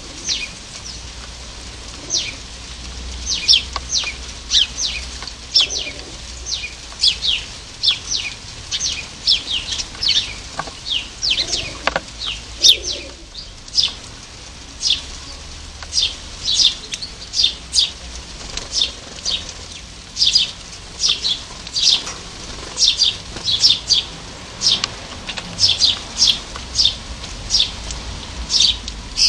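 Small garden birds chirping over and over: short, high notes that each fall in pitch, about one or two a second in an irregular run.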